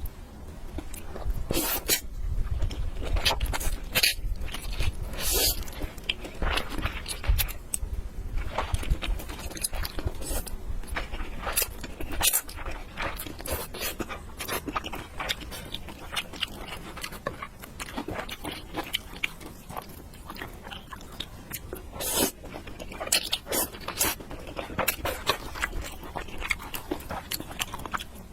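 Close-miked eating sounds of a person chewing fried noodles, with crunching and many short sharp clicks.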